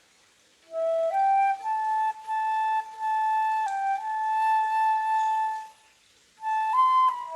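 Solo flute playing a slow melody: it comes in about a second in with a few stepping notes, holds one long note for several seconds, breaks off briefly near the end and then resumes.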